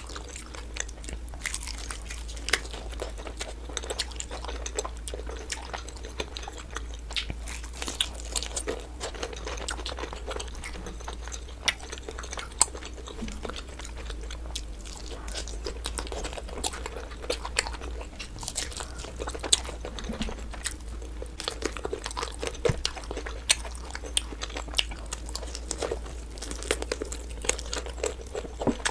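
Close-miked chewing and biting of sauce-glazed fried chicken, with many irregular sharp crunches, over a steady low hum.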